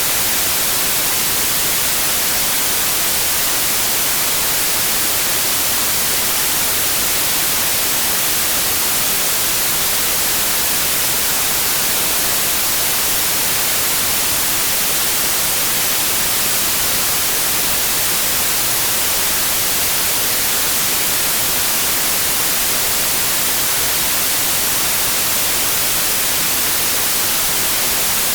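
Steady white noise: an even, unbroken hiss, bright in the highs, with no tones or changes.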